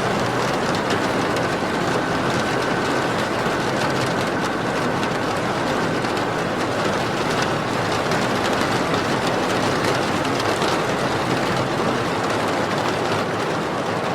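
Steady heavy rain, an even hiss of falling water with no music over it.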